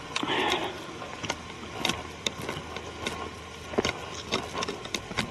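Footsteps on a forest trail: irregular crunches and snaps of leaf litter and twigs underfoot, with a louder rustle near the start.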